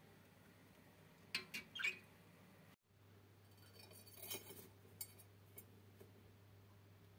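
Pet budgerigars giving two short, sharp chirps about a second and a half in, then a cluster of softer chirps and clicks around four seconds in, over a faint steady low hum.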